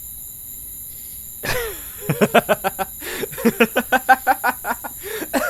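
A man laughing: a sharp intake of breath about a second and a half in, then a long run of quick, pitched "ha-ha" pulses, about six a second, with a short break in the middle. Underneath, a faint steady night-time insect chirring.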